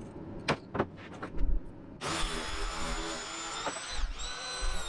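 A few light knocks, then about two seconds in an electric motor starts suddenly and runs steadily with a high whine. Near the end it briefly drops in pitch and comes back up.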